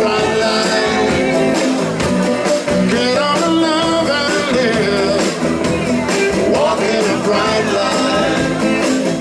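Live band playing an up-tempo rock-and-roll number with a steady drum beat.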